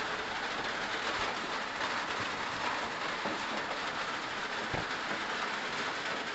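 Heavy storm rain falling steadily on the roof, heard from inside the attic under the roofing as a dense, even hiss.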